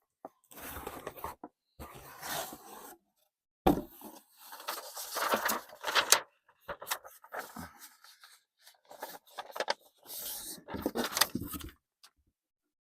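Hands handling a sneaker and its cardboard box: irregular bursts of scraping and rubbing, with a few sharp clicks and knocks.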